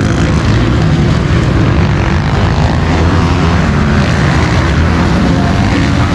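Several 450-class motocross bike engines running and revving together in a race, a loud, steady, dense engine drone.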